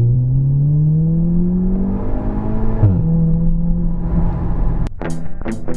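Audi S3 8V's Stage 2 tuned 2.0 TFSI turbo four-cylinder pulling hard under full acceleration, its note rising steadily. Almost three seconds in, the pitch drops suddenly at an upshift and climbs again in the next gear. Guitar music cuts in near the end.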